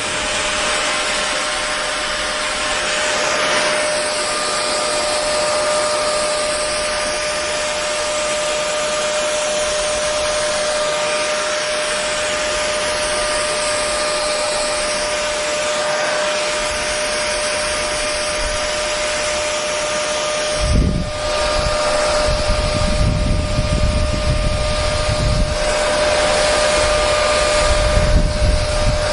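Hair dryer running steadily: rushing air with a constant motor whine. From about two-thirds of the way in, irregular low rumbling pulses join it.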